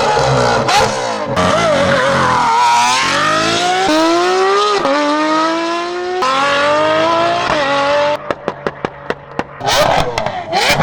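A supercar engine accelerating hard, its pitch climbing steadily and dropping at two quick gear changes, then a rapid string of exhaust pops and crackles on the overrun, followed by a short rev near the end.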